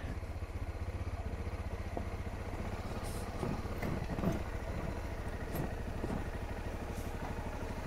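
Honda motorcycle engine running at low revs as the bike rolls slowly over a dirt track and comes up to a stop, a steady low pulsing note.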